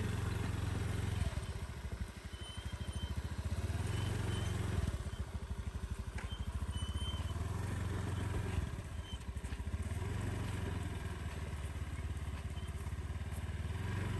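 Motorcycle engine running steadily as it is ridden, with a few short high chirps over it.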